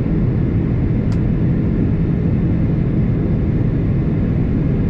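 Steady low rumble of an Airbus A330-200 airliner cabin in flight, from engine and airflow noise. A brief faint click comes about a second in.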